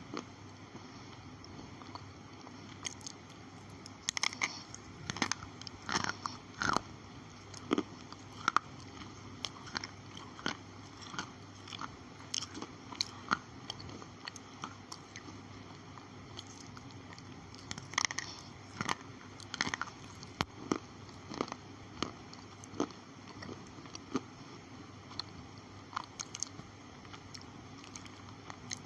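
A person biting and chewing slate pencils: sharp, irregular crunches that come in clusters with short pauses between them.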